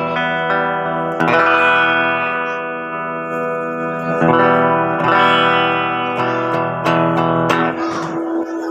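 Electric guitar on a clean tone, strumming chords that ring out. New chords are struck about a second in, around four and five seconds, and near seven seconds, and the last one fades near the end.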